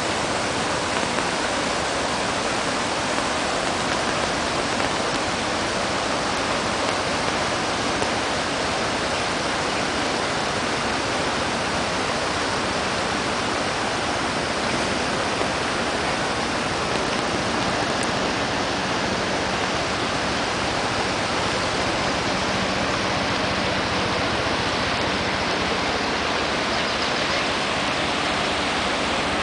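Floodwater rushing, a steady, unbroken wash of noise.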